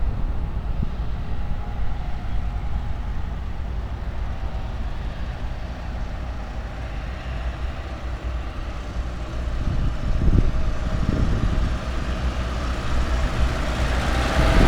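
A vehicle engine running steadily with a low rumble, growing louder near the end.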